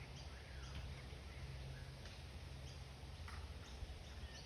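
Birds chirping: short, scattered chirps at irregular intervals over a low, steady background rumble.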